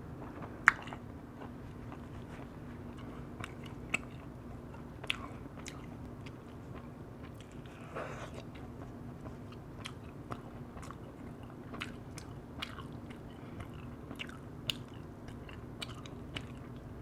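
A person eating roast chicken close to the microphone: chewing with scattered sharp mouth clicks and smacks, the sharpest about a second in. A steady low hum runs underneath.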